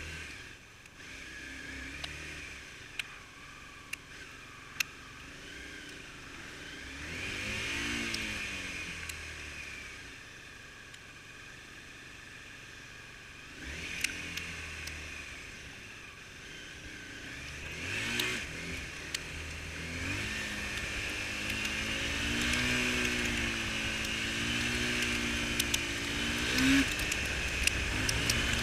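Motorcycle engine on the road, its pitch climbing as it accelerates and dropping back several times, under a steady hiss of wind and rain. Scattered sharp ticks.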